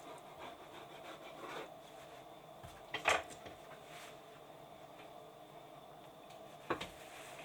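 Faint rubbing and scraping of objects being handled, with two sharp knocks: a louder one about three seconds in and another near the end.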